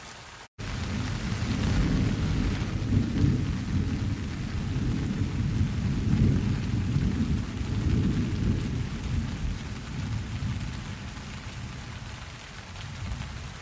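Steady rain with a long rolling rumble of thunder. The thunder starts about half a second in, right after a momentary dropout in the sound, swells over the next couple of seconds and slowly fades toward the end.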